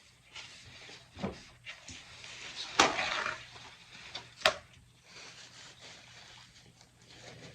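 Eating sounds from a seafood boil meal: chewing and handling of food, with a few sharp clicks and a short crackly stretch about three seconds in.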